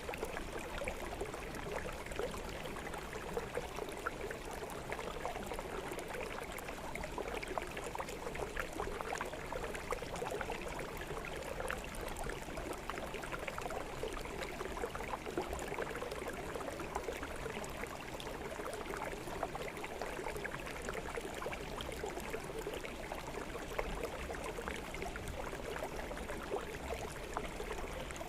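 Small forest stream flowing steadily over rocks, a continuous babbling and trickling of water.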